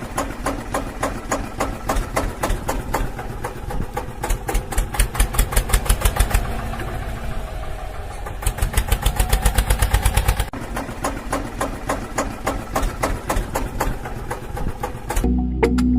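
Mini diesel engine running with a rapid, even firing beat that speeds up and slows down, louder at times, with an abrupt change about ten seconds in.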